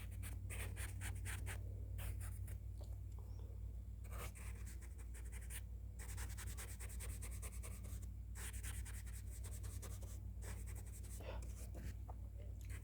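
Close-miked scratchy strokes on a surface, several a second in quick runs with brief pauses, like sketching or fine brushing, over a steady low hum.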